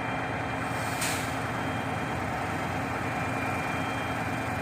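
Shingle delivery truck's engine running steadily while its pulley lift brings the platform back down, with a faint steady high whine and a short hiss about a second in.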